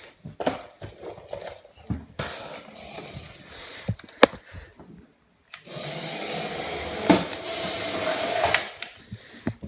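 1/10 scale RC rally car's small electric motor whirring as the car drives, with sharp clicks and knocks in the first half and one steady run of about three seconds in the second half.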